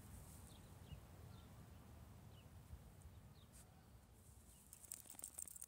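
Faint outdoor ambience: small birds chirping now and then in short falling chirps over a low rumble, with a few soft rustles and clicks near the end.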